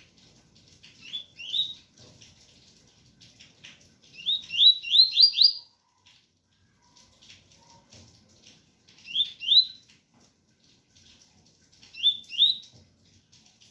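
Double-collared seedeater (coleiro) singing the pure 'tui tui' song: short, clear, rising whistled notes in pairs, with one quicker run of five notes, over a faint patter of rain.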